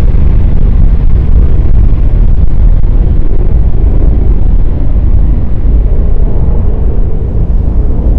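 Airbus A330-243's Rolls-Royce Trent 700 jet engines at takeoff thrust: a loud, deep rumble whose higher hiss thins out, easing slightly near the end.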